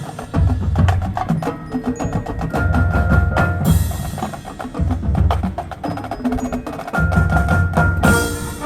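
High school marching band playing a percussion-heavy passage: rapid drum strikes, deep bass drum hits and sustained pitched mallet notes.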